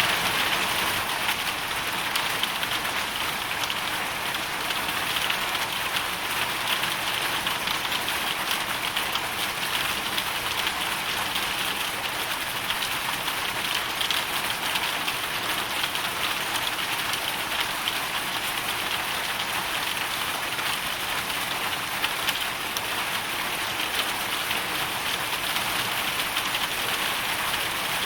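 Hail storm: a dense, steady patter of hailstones and rain striking a surface, made up of countless small ticks.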